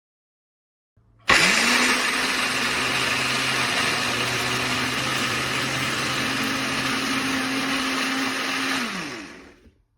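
Amazon Basics portable 300 W blender switched on about a second in, its motor running steadily for about eight seconds, then winding down and stopping near the end.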